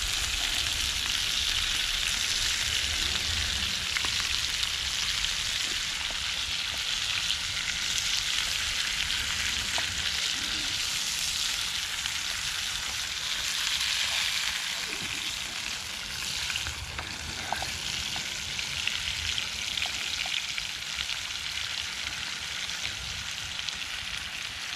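Bacon sizzling and frying in a pan over a campfire, a steady hiss with a few small pops and crackles, easing off a little in the second half.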